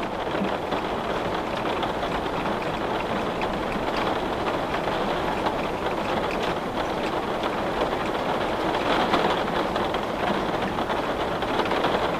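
Steady rain falling on and around a window, an even hiss with scattered drops ticking through it.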